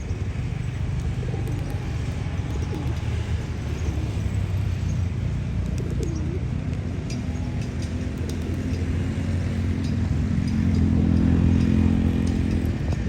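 Faint bird chirps over a steady low rumble. A droning hum swells louder near the end.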